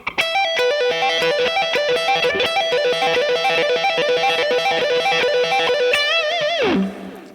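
Electric guitar playing a fast repeating minor pentatonic lick: hammer-ons and pull-offs between the 12th and 15th frets on the high E string, then the same on the B string, over and over. About six seconds in, the run stops on a held note with vibrato that fades out.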